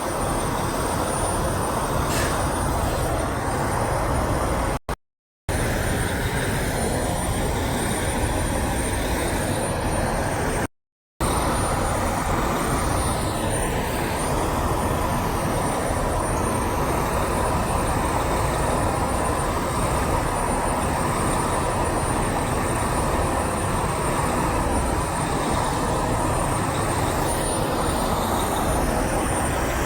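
Steady roadside traffic noise of semi trucks and other vehicles passing, a dense low rumble with no horn sounding. It drops out to silence briefly twice, about five and eleven seconds in.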